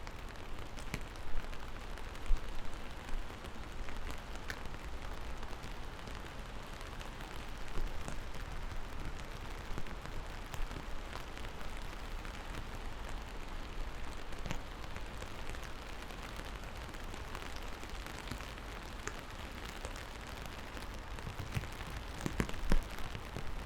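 Steady rain falling, with scattered louder drops striking close by and a low rumble near the end.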